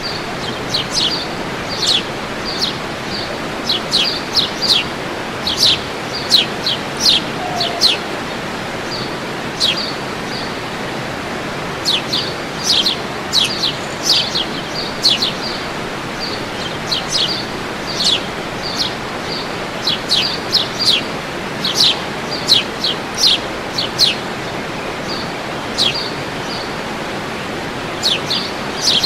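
Songbirds chirping in bursts of quick, high notes, with short pauses between the bursts, over the steady rush of a waterfall.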